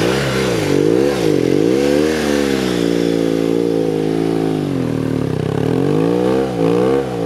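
BMW GS motorcycle engine revved up and down again and again, pitch rising and falling several times, as the bike is stuck with its rear wheel clogged with mud.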